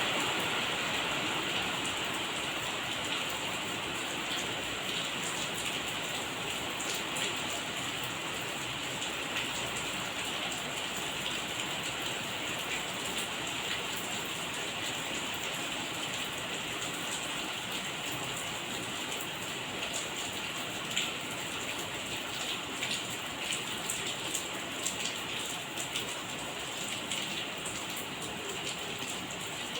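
Steady rain falling, an even hiss with scattered louder drops striking a surface, the individual drop hits more frequent in the second half.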